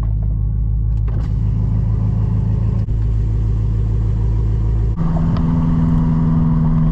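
Straight-piped BMW M5 (F10) twin-turbo V8 running at a steady idle after a cold start, with a low, even exhaust note. About five seconds in, the note steps abruptly up to a higher steady pitch.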